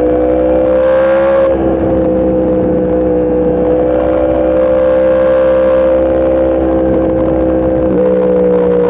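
Sport motorcycle engine running hard at steady high revs. The pitch climbs briefly and drops about a second and a half in, as at a gear change, then holds, and dips again near the end.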